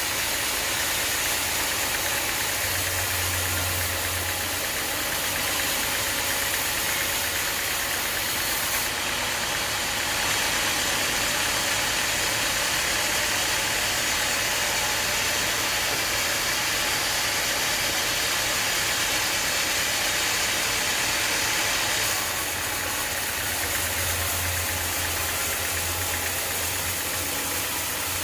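Sawmill machinery running steadily on an engine. The sound turns brighter and hissier from about nine seconds in until about twenty-two seconds, typical of the saw blade passing through an acacia log.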